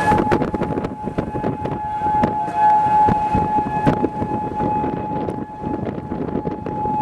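Steady roar of a large tornado heard from a few miles off, with wind buffeting and knocks on the microphone, under a steady siren tone that fades and swells.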